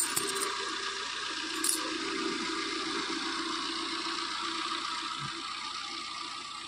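A Maruti Suzuki car's engine idling steadily close by, with a couple of sharp clicks in the first two seconds.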